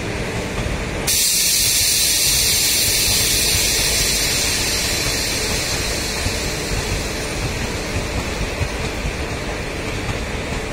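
Passenger train coaches rolling past on the track, a steady rumble of wheels on rails. About a second in a loud hiss sets in and slowly fades over the following seconds.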